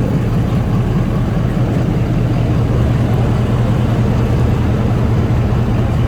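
A steady low machine drone under a constant background din, with no breaks or sudden sounds.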